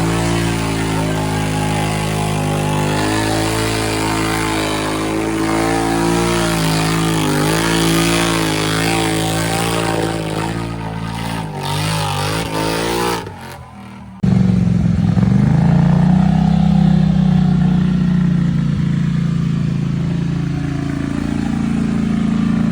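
Built Polaris Sportsman 850 ATV engine revving hard under load in a mud hole, its pitch wavering up and down. About 14 seconds in, after a brief drop, a different engine runs at a steady pitch.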